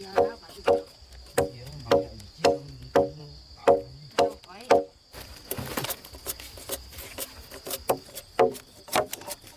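A hand tool striking wood in steady, even blows about twice a second, each with a short ringing knock, as in chopping or hammering timber. The blows pause for about a second in the middle, when a rustling scrape is heard. A steady high insect whine runs underneath.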